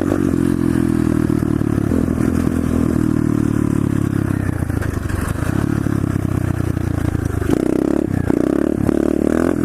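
125cc SSR pit bike's single-cylinder four-stroke engine running under steady throttle while riding; its pitch shifts about seven and a half seconds in.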